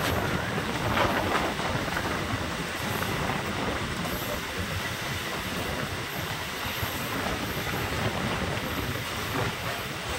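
MEMU electric train running on the rails, a steady rumble and rattle of wheels and carriage, with faint high wheel squeals now and then.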